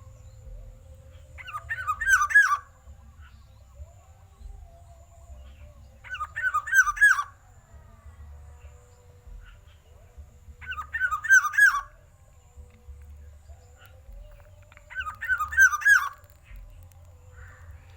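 Black-naped oriole calling loudly in four short bursts of quick looping notes, each about a second long, repeated about every four and a half seconds.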